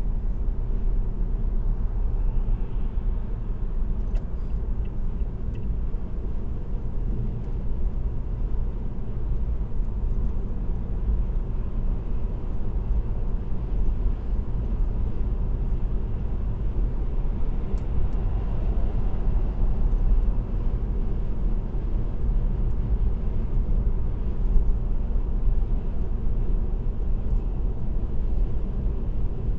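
Car cruising on an expressway at a steady speed: a continuous low rumble of road and engine noise.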